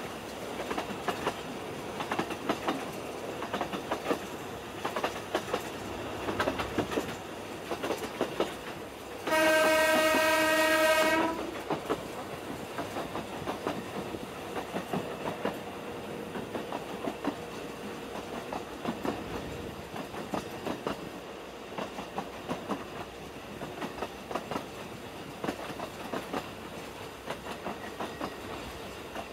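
Narrow-gauge train on the move, wheels and carriage clicking and rattling over the track. About nine seconds in, the train sounds one steady horn blast of about two seconds.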